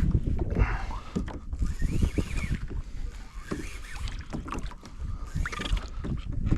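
Water slapping and sloshing against a kayak hull with wind buffeting the microphone, in a run of irregular low knocks and rumble. A few brief higher glides come through about half a second in, around two seconds in and near the end.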